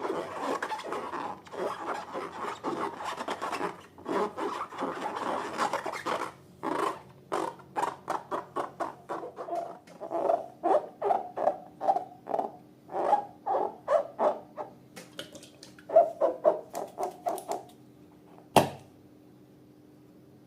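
Rubber balloons and slime being handled: about six seconds of continuous rubbing and scraping, then a run of short squeaky rubbing strokes about two a second, and one sharp snap near the end.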